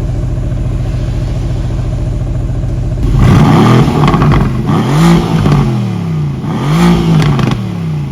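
Mercedes-AMG GT C's 4.0-litre twin-turbo V8 idling steadily, then revved three times from about three seconds in, each rev rising and dropping back.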